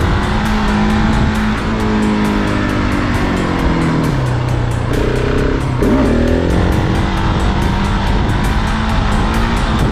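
Motorcycle engine running under throttle with wind buffeting the microphone; the engine note drops about four seconds in as the throttle eases, gives a quick blip just before the six-second mark, then climbs back up.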